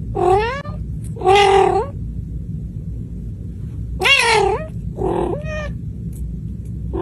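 Cat yowling: about five drawn-out, wavering calls, the last starting near the end.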